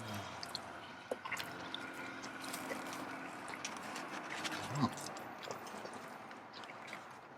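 Wet chewing of a mouthful of chili and cheese-covered fries, with scattered small mouth clicks and a brief low hum about five seconds in.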